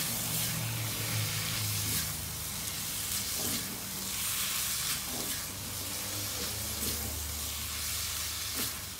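Pork belly, chilli paste and Thai basil sizzling steadily as they stir-fry in a pan over a gas flame. A spatula strikes and scrapes through the food about once a second, folding the basil leaves into the sauce.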